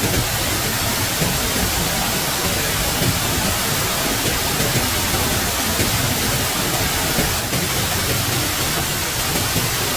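Steady, dense rushing of water, an even hiss that does not let up.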